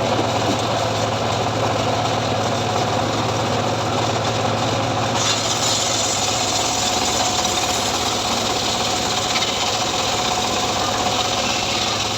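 Engine of a homemade srekel sawmill rig running steadily. About five seconds in, a brighter high hiss joins the engine sound.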